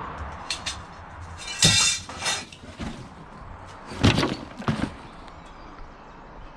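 Knocks, cracks and clatters of plastic and metal being pulled and broken off an electric radiator for scrap, with two louder crashes about two and four seconds in.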